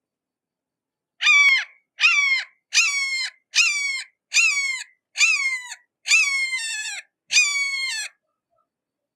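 A hawk calling: a series of eight harsh, slightly falling calls in quick succession, a little under one a second.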